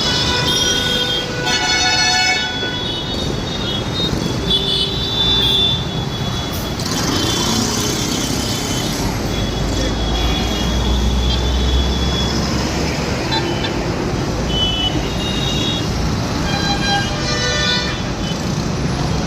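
Road traffic: vehicle horns honk repeatedly at intervals over a steady engine and road rumble, with a deeper engine rumble swelling for a few seconds near the middle.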